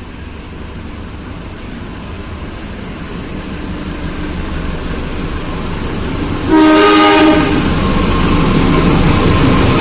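Train approaching, its rumble growing steadily louder, then the locomotive's horn sounding one blast of about a second, about six and a half seconds in, as the train runs past loudly.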